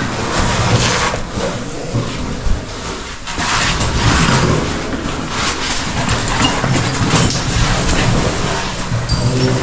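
Cavers moving through a cave passage: a steady run of footsteps and gear scraping and rustling, over a low rumble.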